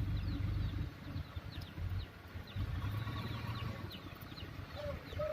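Heavy diesel truck engine running with a low rumble that swells and eases, while small birds chirp repeatedly in short falling notes over it; a brief gliding call comes near the end.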